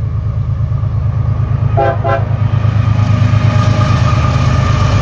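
Diesel locomotives of a CSX freight train rumbling as the train approaches, getting louder. About two seconds in, the locomotive's air horn gives two short toots.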